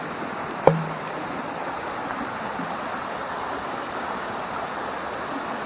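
Steady rushing of a jungle stream and its small waterfalls. A single short sharp knock comes a little under a second in.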